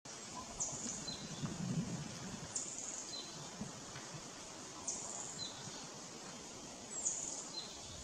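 A bird repeats a high, thin two-note call four times, about every two seconds: a falling whistle, then a short lower note half a second later. A steady outdoor hiss runs underneath.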